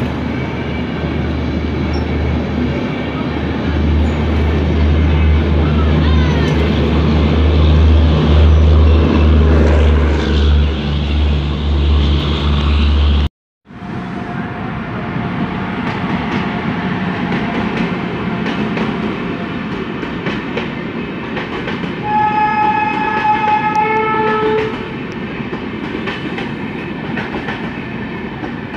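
An express train running past a platform at speed, the heavy rumble and clatter of its coaches growing louder, then cut off. After a short break another train rolls past with a steady clatter, and a train horn sounds once for about two and a half seconds near the end.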